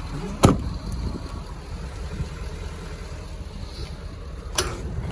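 A truck door shutting with a loud thump about half a second in, and a smaller knock near the end, over a steady low rumble.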